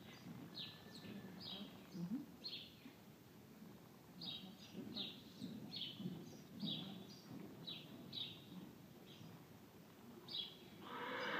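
Small birds chirping, short high calls repeating about once or twice a second, over faint dull thuds of a horse's hooves on the arena's sand footing.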